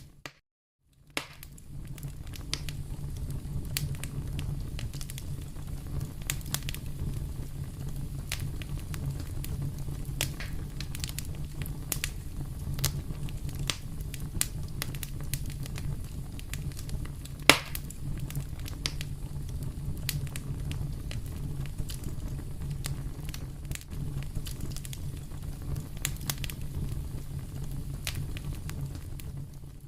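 Wood fire crackling in a fireplace: a steady low rumble of flame with scattered sharp pops, and one loud pop a little past halfway. The sound drops out completely for about a second just after the start.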